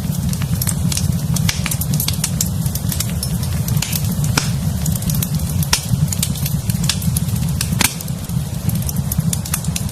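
Wood fire in a fireplace crackling: frequent sharp, irregular pops and snaps over a steady low rumble of the flames.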